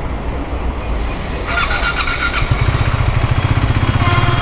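Motorcycle engine running with a brief high squeal about one and a half seconds in, then a louder, steadily pulsing engine note from about two and a half seconds on.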